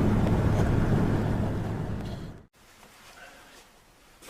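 Strong wind buffeting the microphone, a loud low rumble that fades and cuts off abruptly about two and a half seconds in, leaving a much quieter outdoor hiss.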